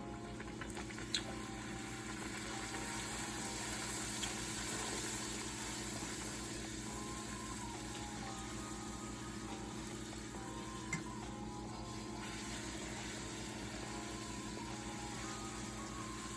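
Poori dough deep-frying in hot oil on a high flame, giving a steady sizzle. Two sharp clicks sound, one about a second in and one near the end.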